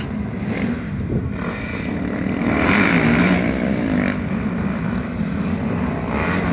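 Motorcycle engines running and revving, with the pitch wavering up and down and the sound growing louder about halfway through.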